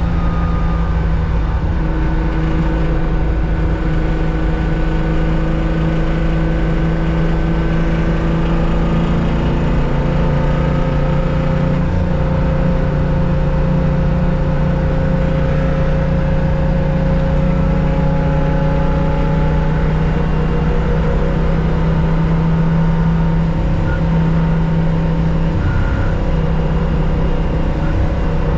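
1965 Porsche 911 2.0's air-cooled flat-six engine under racing load, heard from inside the car, holding one gear while its pitch climbs slowly for many seconds. Near the end the engine note dips briefly.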